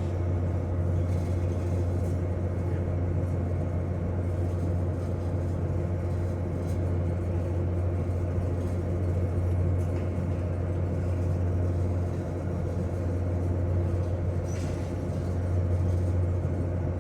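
Steady low engine drone with a continuous rumble, unchanging throughout.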